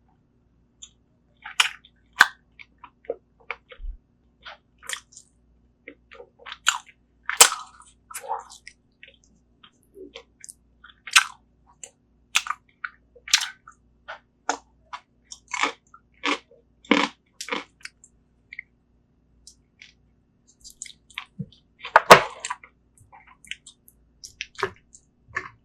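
Close-miked eating sounds: irregular wet chewing, lip smacks and small clicks of someone eating spicy braised seafood, with a louder cluster of smacks about 22 seconds in.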